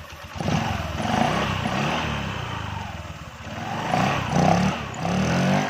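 Honda Vario 125 scooter's single-cylinder engine revved up and down several times under the throttle, a test run of the CVT just fitted with a new V-belt, rollers and roller slider to cure a rattle when riding.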